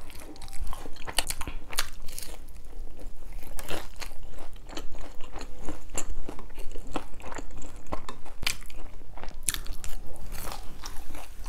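Crunching and chewing of a fried gimmari, a deep-fried seaweed roll stuffed with glass noodles, dipped in tteokbokki sauce: many crisp bites and chews one after another.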